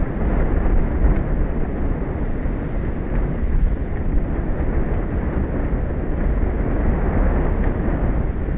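Steady, loud rumble of wind and sea on an exposed outdoor microphone, an even low noise with no separate events.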